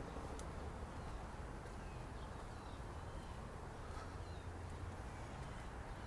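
Outdoor city-park ambience: a steady low rumble of city traffic under a general hum, with a few faint, short bird chirps.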